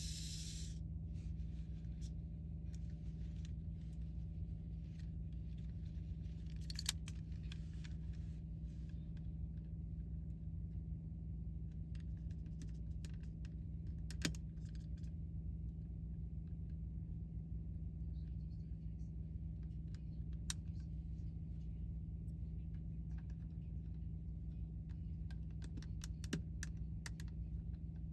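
Scattered small clicks and taps of plastic toy parts being handled and fitted, as the cannons of a vintage wind-up toy spaceship are reinstalled. Steady low hum underneath.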